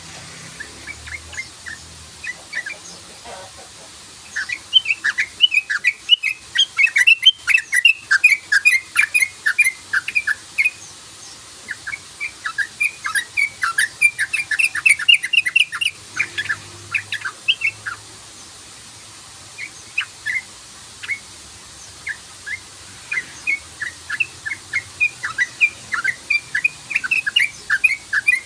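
Yellow-vented bulbul (trucukan) giving rapid runs of short, chattering 'cruk-cruk' notes in several long bursts separated by brief pauses.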